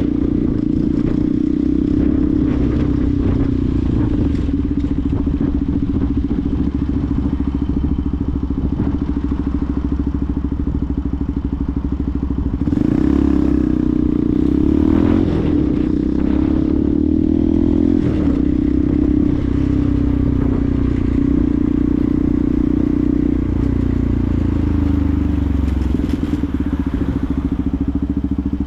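Benelli TNT 125's single-cylinder 125cc engine running while the bike is ridden, over a steady hiss. The engine note shifts up and down for a few seconds about halfway through, as the revs change.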